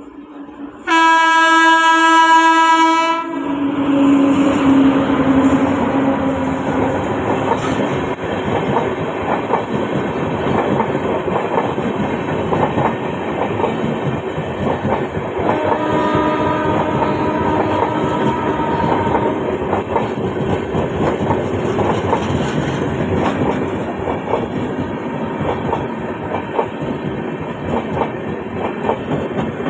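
A passing train's locomotive horn sounds loudly for about two seconds near the start. The train then runs past close by with continuous wheel rumble and clatter on the rails, and a second, quieter horn blast comes about halfway through.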